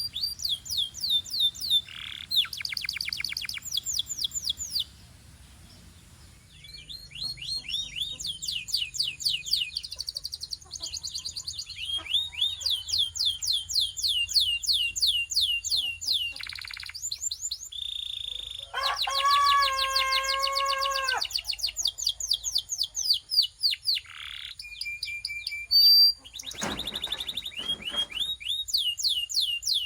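Belgian canary singing: long fast trills of rapidly repeated high chirps, broken by a short pause about five seconds in. Around twenty seconds in it switches to a lower, fuller rolling note for about two seconds before going back to quick high trills, with a brief sharp knock near the end.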